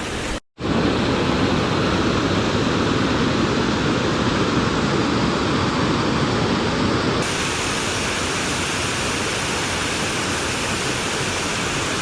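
A waterfall of about 10 to 20 metres, its water rushing in a steady, loud roar. There is a very short break about half a second in, and the hiss turns brighter about seven seconds in.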